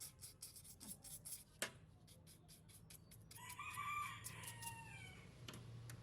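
A rooster crowing: one call of about two seconds that falls in pitch at its end. It comes after rhythmic scraping strokes, about five a second, and a single sharp click.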